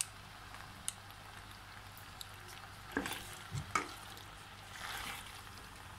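Chicken macaroni sizzling faintly in a pan over the lowest flame, with a few light clicks and the sound of a wooden spatula stirring the chilli garlic sauce through it in the second half.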